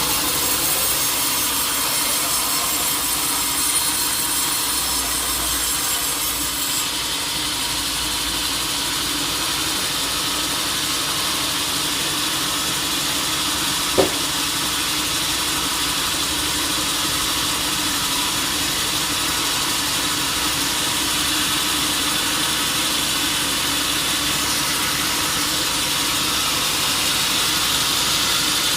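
Sawmill saw cutting through a teak log, running steadily, with one sharp knock about halfway through.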